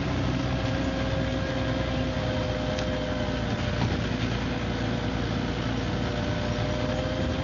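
MCW Metrobus double-decker bus engine running steadily, with a steady whine over the low engine rumble.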